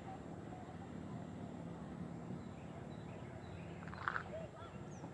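Small birds chirping here and there over a steady low hum, with one brief, louder call about four seconds in.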